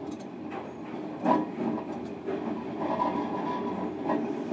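Onboard running sound of a JR Kyushu 305 series electric train, heard inside a motor car: steady rolling noise with wheels knocking over rail joints, loudest about a second in. A faint steady whine comes in during the second half.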